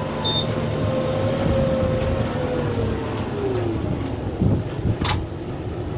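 Kubota M6-141 tractor's diesel engine running under load, its steady whine dropping in pitch about halfway through as the revs fall. A single sharp knock sounds about five seconds in.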